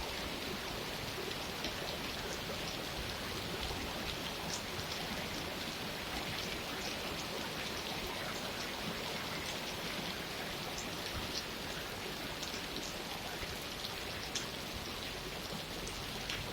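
Steady rain falling, with many separate raindrops ticking sharply on a surface.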